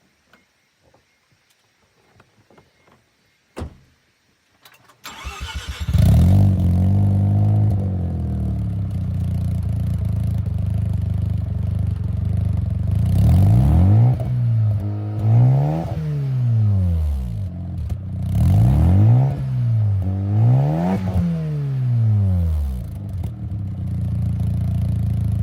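Mazda RX-7 FD3S twin-turbo 13B rotary engine breathing through a road-legal GP Sports EXAS Evo Tune muffler. After a few faint clicks, the starter cranks about five seconds in and the engine catches and settles to idle. It is then blipped in two pairs of quick revs that rise and fall before dropping back to idle.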